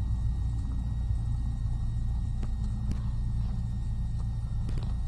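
Cessna 172's piston engine and propeller droning steadily, heard inside the cabin, with a faint steady high whine above it.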